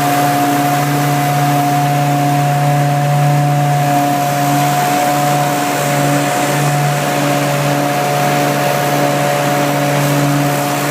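BlueLine Thermal Wave truck-mount carpet cleaner, its fuel-injected engine and vacuum blower running steadily at the high, dual-wand speed. It is a loud, even drone with a few held tones.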